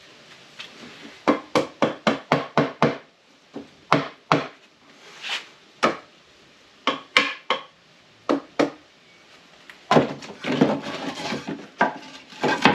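Hammer blows: a quick run of about eight strikes, then single taps spaced out, then a denser clattering stretch near the end.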